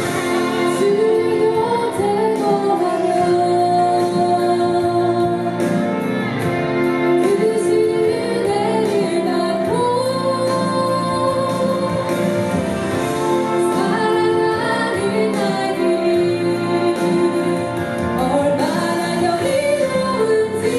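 A Korean worship song sung by a woman's voice, with instrumental accompaniment and long held notes.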